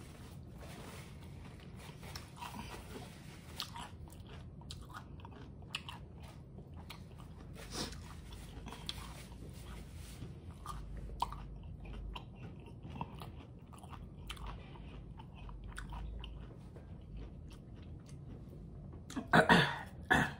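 Close-miked chewing of a crunchy hard corn taco shell, with small crackles, crunches and wet mouth sounds. Near the end comes a short, much louder burst of voice.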